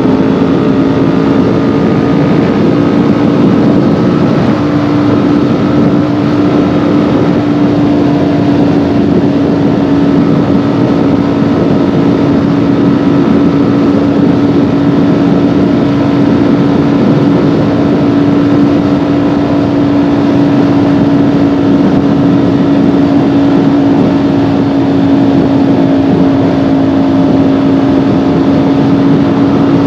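Kawasaki Ninja 400's parallel-twin engine pulling at a steady cruise. Its pitch rises slightly in the first few seconds and then holds, with wind and road noise around it.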